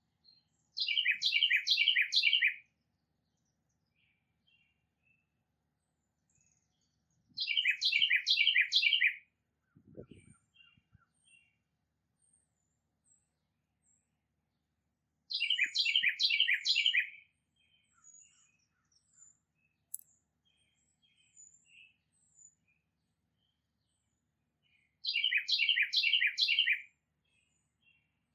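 A songbird singing a short phrase of about five quick down-slurred whistles, repeated four times with long pauses between, while fainter chips from other birds sound in the gaps.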